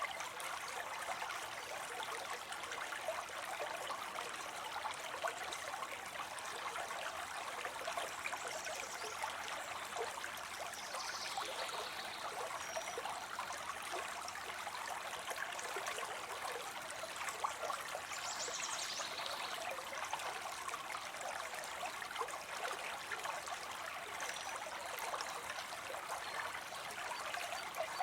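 Water spilling steadily into a pond, an even splashing trickle of falling water.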